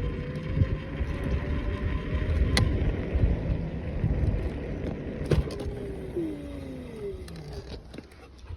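A vehicle engine running over a low rumble. Its pitch rises slowly at first, then glides down about two-thirds of the way through as the vehicle slows, with a couple of sharp clicks along the way.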